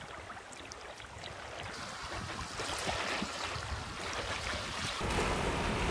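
Sea water lapping and splashing around a kayak, with a low rumble that grows about five seconds in.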